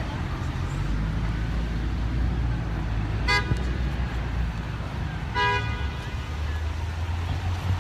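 Two short car horn toots, about two seconds apart, over a steady low rumble of city traffic.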